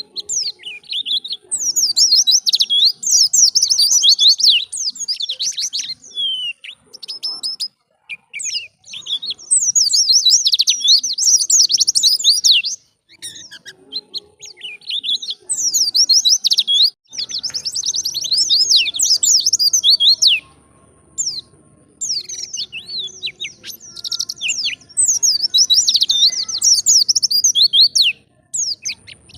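White-eye (pleci) singing: long phrases of fast, high twittering, several seconds each, broken by short pauses.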